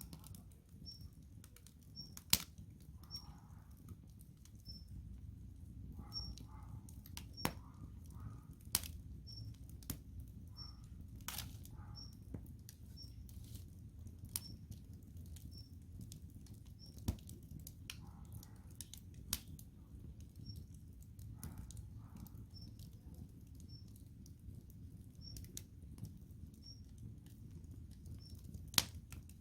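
Wood campfire crackling, with sharp pops every second or few over a low steady rumble.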